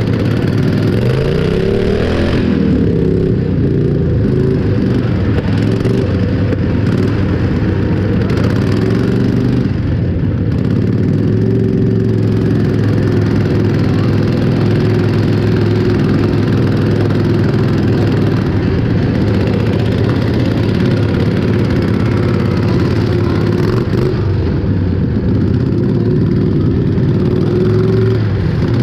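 Several vehicle engines running, with one revving up briefly about two seconds in and again around ten seconds in.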